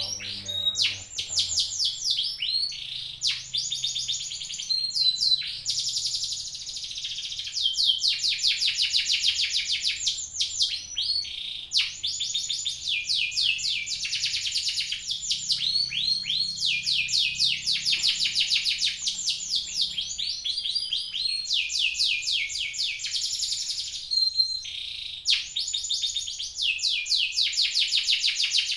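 Songbird singing long, rapid phrases of fast repeated high trills and chips, broken by short pauses.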